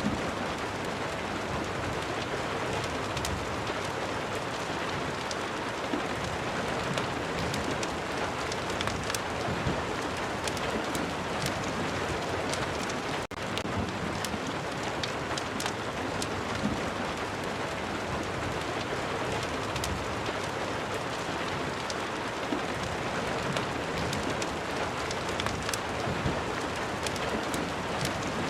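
Steady rain with many small sharp ticks of drops throughout, broken by a split-second dropout about halfway through.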